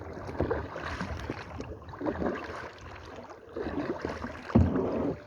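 Kayak paddle strokes in the water, with splashing and sloshing that swells roughly once a second in an uneven rhythm.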